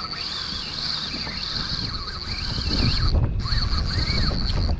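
Spinning reel's drag paying out line in a high steady whine as a hooked jack runs, breaking off briefly about three seconds in. Wind buffets the microphone, louder in the second half.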